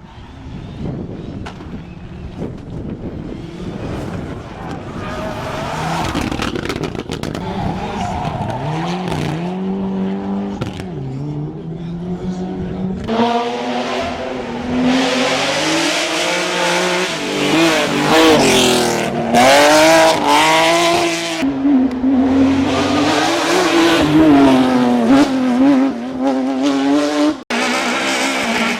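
Rally car engines at full throttle on a stage, revving up and dropping back through quick gear changes as the cars approach and pass. The sound gets louder about halfway through and cuts briefly near the end.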